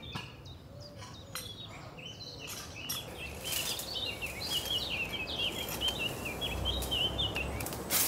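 A small songbird singing a fast run of high chirps from about three seconds in until near the end, over steady outdoor background noise, with scattered sharp clicks and rustles.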